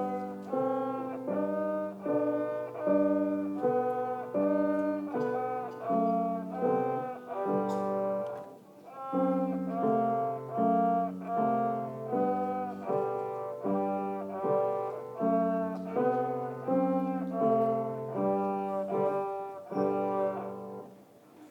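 Instrumental playing of a Taiwanese children's song melody: sustained notes about two a second over a lower accompanying line, with a brief break between phrases about eight seconds in, ending near the close.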